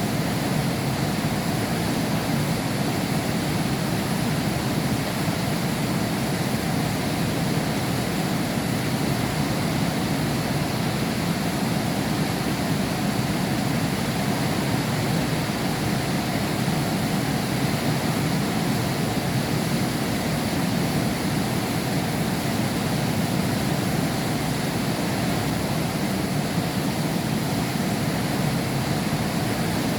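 Heavy rain falling steadily, heard from behind window glass: an even, unbroken rush of noise with most of its weight low down.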